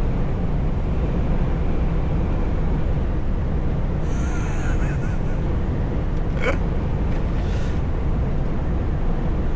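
Truck driving on a winter road: a steady low rumble of engine and road noise. A faint wavering squeak comes about halfway through, and a brief chirp shortly after.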